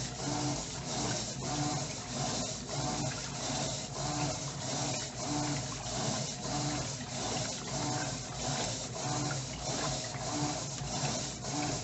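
Electrolux LTE09 top-load washing machine agitating, its motor humming in regular strokes as the agitator swings back and forth and the water and clothes slosh in the tub.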